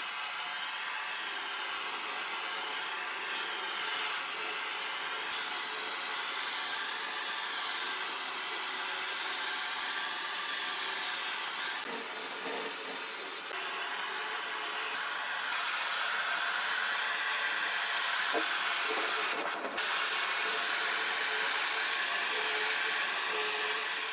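A power tool motor running steadily with a hissing whir, its tone shifting slightly a few times.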